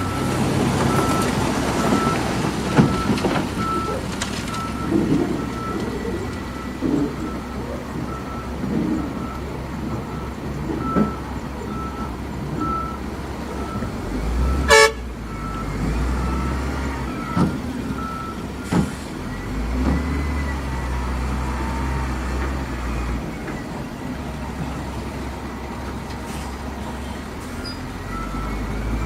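Diesel engines of heavy construction machinery running, with a reversing alarm beeping about twice a second through the first half and again near the end. A brief horn toot sounds about halfway through, and there are scattered knocks.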